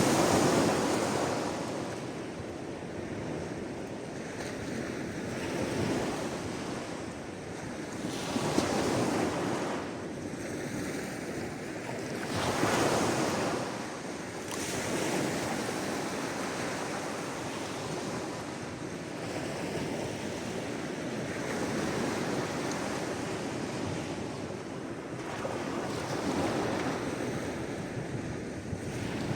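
Sea waves washing onto the shore, a swell of surf every few seconds that fades back into a steady hiss of water.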